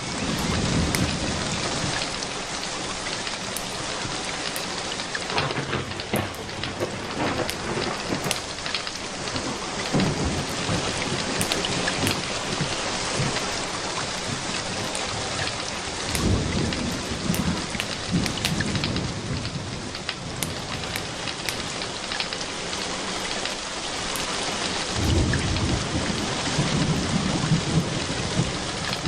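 Steady rain with a crackling wood fire, and low rumbles of thunder swelling up several times, the longest over the last few seconds.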